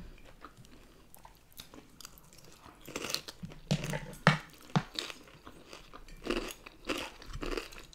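Close-miked chewing and biting of crunchy food: lettuce salad and breaded chicken nuggets. It is quiet at first with faint small clicks, then a run of crisp crunches starts about three seconds in.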